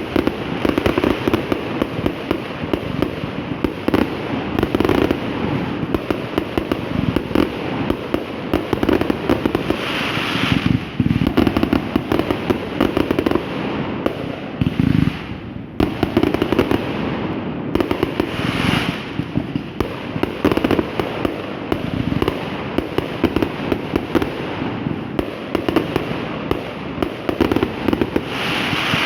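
Fireworks going off in a dense, continuous barrage of rapid overlapping bangs and crackles, with a few louder swells of crackling.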